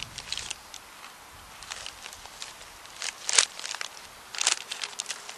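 A person crunching and chewing kettle-cooked potato chips: irregular crisp crunches, the loudest about three and a half seconds in.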